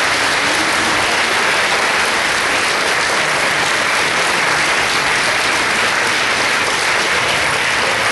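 Audience applauding steadily, a dense sustained clapping from a large crowd in a hall.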